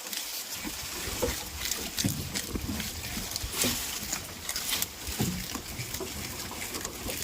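Goats making several short, low bleats and grunts, among scattered small clicks and rustling.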